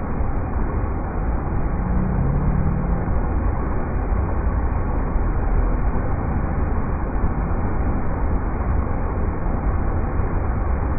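River rapids rushing in a steady, unbroken roar of water, heaviest in the deep rumble.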